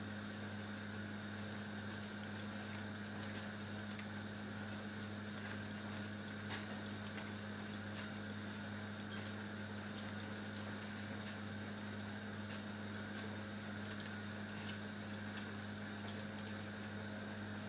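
Steady low electrical hum of a running kitchen appliance, with light, irregular clicks and taps over it.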